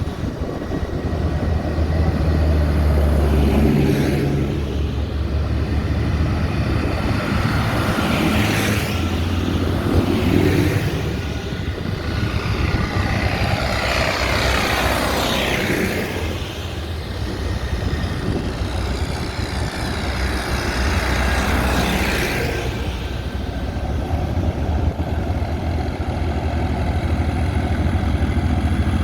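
Tractor engines running as a line of tractors drives past one after another. The sound swells and fades with each pass, several times, with the broadest pass-by a little past halfway.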